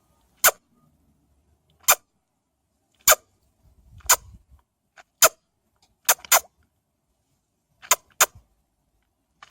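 A series of about ten short, sharp clicks, roughly one a second, with two quick double clicks in the second half and a faint low rustle near the middle.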